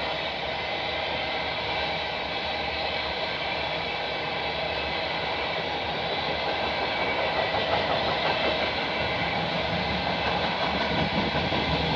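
A freight train of empty windmill-blade flatcars rolling past at speed, with a steady noise of steel wheels running on the rails that grows a little louder about eight seconds in.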